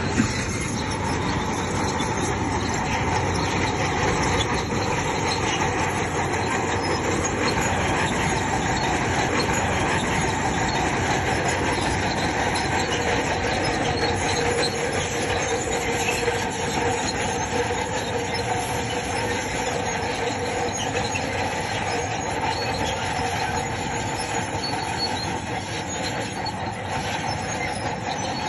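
Crawler bulldozer working: its diesel engine running steadily under the steel tracks' continuous grinding, with a wavering whine over it.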